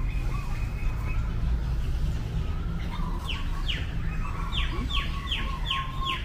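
A bird calling a quick series of short falling notes, about two or three a second, starting about halfway through, over a steady low rumble.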